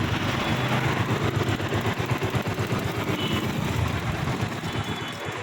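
Bajaj Pulsar AS150 motorcycle's single-cylinder engine running with a rapid, uneven low pulsing.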